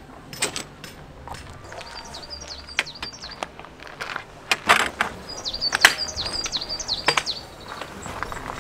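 A small bird chirps the same short call over and over in two runs. Several sharp clacks come in between, the loudest sounds here, as metal tent poles are handled.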